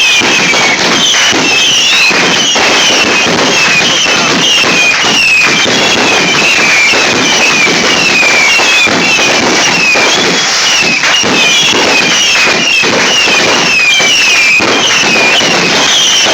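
Consumer fireworks finale board firing in a nonstop barrage: many short falling whistles one after another over dense crackling and popping.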